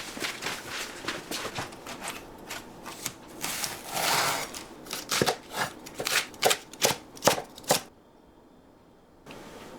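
Rustling and light clicking of ingredients being handled, then a knife chopping on a cutting board, about eight sharp chops at roughly two a second. The chopping stops sharply a little before eight seconds in.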